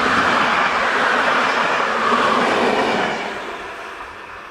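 A passenger train of old coaches passing close by at speed: a steady rush of wheels running on the rails, which falls away from about three seconds in as the tail of the train goes past and draws off.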